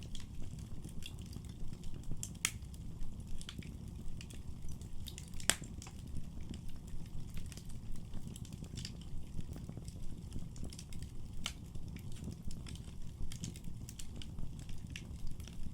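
Wood fire in a fireplace crackling, with frequent irregular sharp pops over a steady low rumble; the loudest pop comes about five and a half seconds in.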